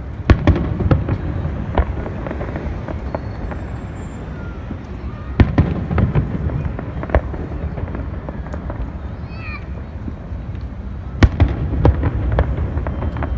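Fireworks display: clusters of sharp bangs from shells bursting, a group near the start, another around the middle and another near the end, over a steady crowd murmur.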